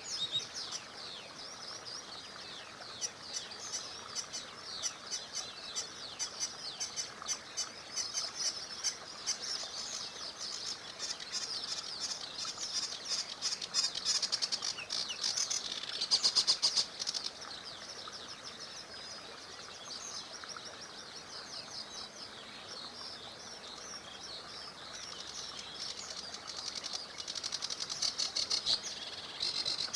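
Small songbirds chirping and singing with rapid dry trills, busiest and loudest about halfway through, over the faint steady rush of a small river.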